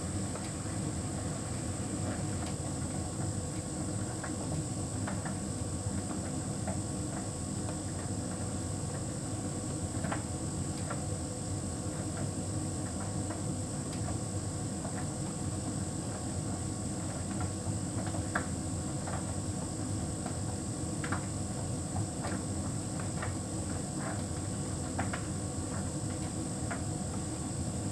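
Hotpoint heat pump tumble dryer running: a steady mechanical hum with a constant high whine, and occasional light clicks.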